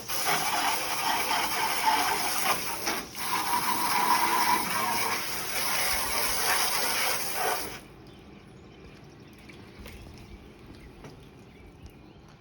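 Water spraying onto a car's bodywork as it is rinsed, a steady hiss with a short break about three seconds in, stopping suddenly before the last few seconds.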